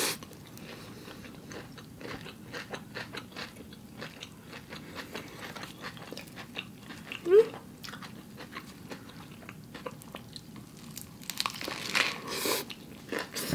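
Close-up biting, crunching and chewing of a big burger loaded with potato chips, lettuce and cabbage, as many short crisp crackles. A short rising tone comes about halfway, and a louder, denser bout of crunching a little before the end marks a fresh bite.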